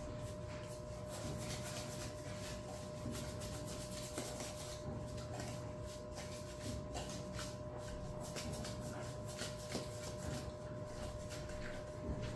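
Dry powdered laundry detergent mix of Epsom salt, baking soda, washing soda and salt being shaken in a container. A faint, steady rubbing swish of powder, with a few light knocks.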